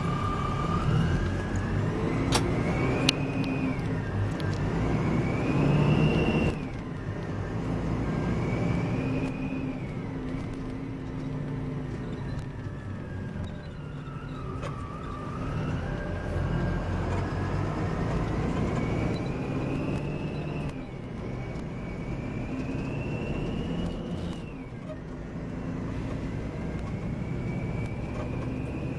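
Volvo B9R coach's diesel engine and driveline pulling away. A whine climbs in pitch, then drops at each gear change, several times. In the middle it falls slowly as the coach eases off, over a steady low rumble.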